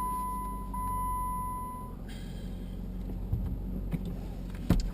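Jeep Patriot's in-cabin warning chime sounding in long steady notes about a second each, stopping about two seconds in, over the low steady hum of the idling engine. A single knock near the end.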